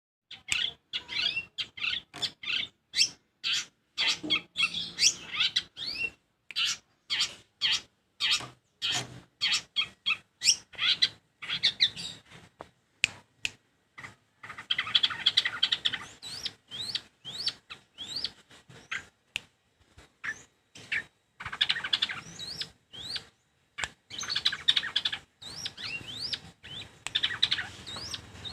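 Long-tailed shrike (cendet) singing: rapid, chattering runs of short chirps and whistled notes, many sweeping upward, in bursts with brief pauses between them.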